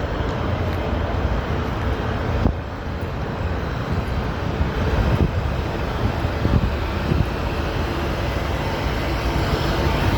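Steady city street traffic noise, vehicles running and passing, with a brief knock about two and a half seconds in.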